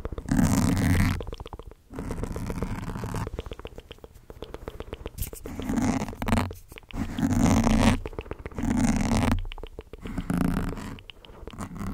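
ASMR mouth sounds made close to the microphone: a string of short bursts, each about a second long, with brief gaps between them.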